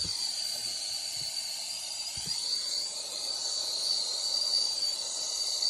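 Brazing torch flame burning with a steady hiss, with a strong high whistle-like edge to it, while heating a leaking copper capillary tube on an evaporator coil for brazing.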